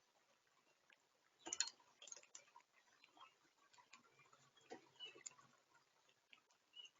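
Birds pecking and hopping on a wooden platform feeder: faint, irregular clicks and ticks of beaks and feet on the tray, with one louder clatter about a second and a half in.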